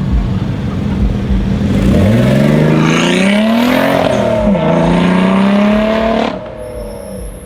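Hyundai i30 N's turbocharged 2.0-litre four-cylinder accelerating hard. The engine note climbs steadily, drops at an upshift about four and a half seconds in, then climbs again before the sound falls away suddenly.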